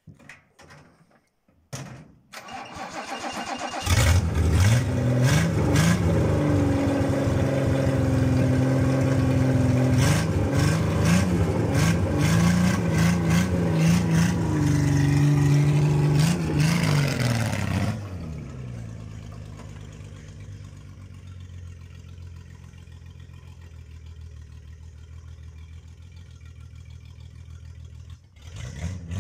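Toyota 4M inline-six engine in a Toyota Crown MS56 cranked and caught about four seconds in, then revved in several rising and falling blips. After about eighteen seconds it drops to a much quieter, steady running sound, heard from farther off.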